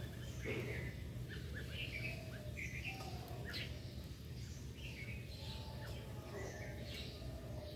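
Several birds chirping, many short chirps scattered and overlapping throughout, over a steady low hum.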